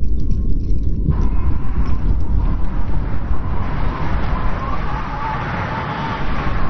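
Strong wind blowing in a snowstorm: a deep steady rumble with a hissing gust that swells about four seconds in, and a faint thin whistle over it.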